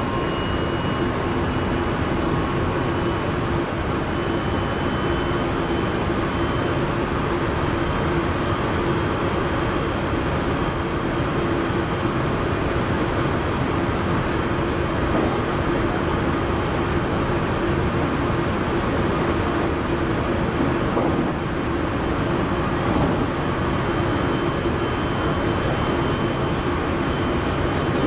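JR Central 373 series electric train running steadily at speed, heard from inside the front of the train: an even rumble of wheels on rail with a steady hum underneath.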